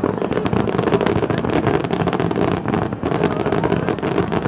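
A barrage of aerial fireworks bursting: a dense, continuous run of pops and crackles from many shells going off in quick succession.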